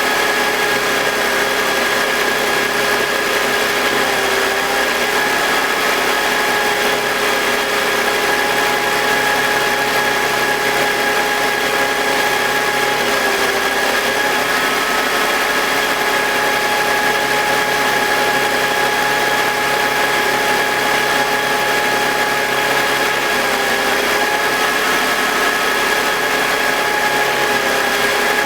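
BMW M52TU 2.5-litre straight-six running at steady idle with its double-VANOS units connected. The idle pitch dips slightly a few times and drops away near the end.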